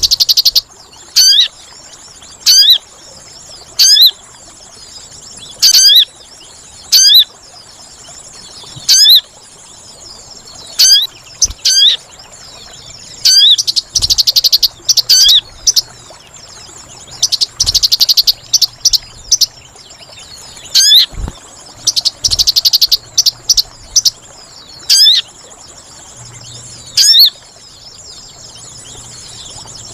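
Bird-lure recording of sogon calls: short, sharp, sweeping high chirps repeated every second or two, broken by three bursts of fast twittering trills in the middle stretch. Underneath runs a steady thin high-pitched buzz, like an insect.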